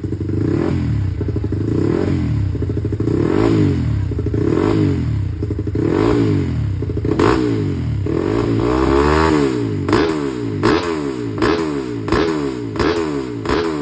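Motocross motorcycle engine revved up and down again and again, about once a second, the blips getting quicker and sharper near the end.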